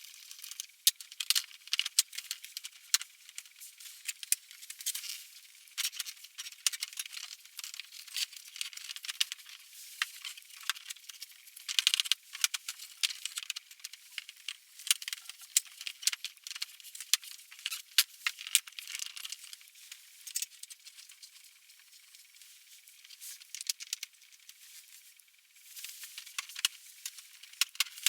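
Tools and small metal parts clicking and rattling irregularly as they are handled, with dense clatter in places and a quieter stretch a little past the middle.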